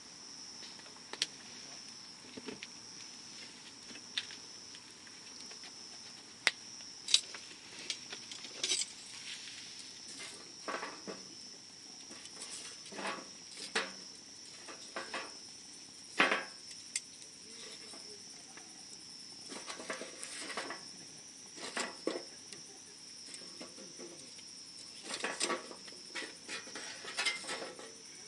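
Wood campfire crackling, with irregular sharp pops and snaps, some in quick clusters. Behind it a steady high-pitched insect chorus trills without a break.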